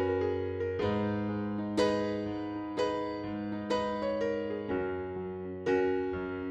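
Background music: soft electric-piano chords, a new chord struck about once a second and left to fade.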